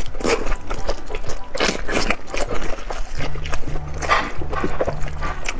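Close-miked wet chewing, smacking and sucking of a mouthful of braised intestines, many quick wet clicks in a row.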